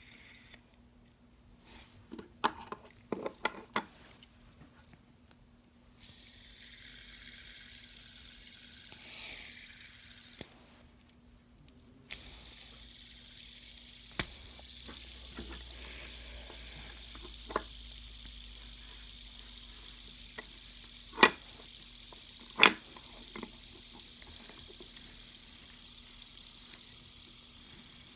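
Fidget spinners spinning, a steady whirring hiss from their bearings, with handling clicks near the start and a few sharp clicks later on.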